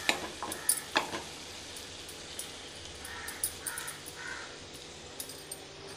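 Chicken drumsticks frying with chopped garlic and onion in oil in a nonstick pan: a faint, steady sizzle, with a few sharp clicks of a spoon against the pan in the first second. Three short crow caws, about half a second apart, sound faintly in the middle.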